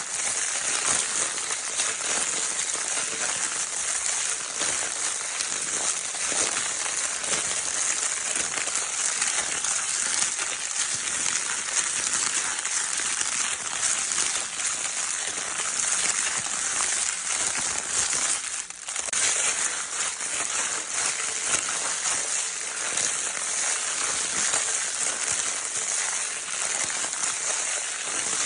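Crinkle paper of a baby's crinkle toy being scrunched and rustled without pause, a dense high crackling with one brief let-up about two-thirds of the way through.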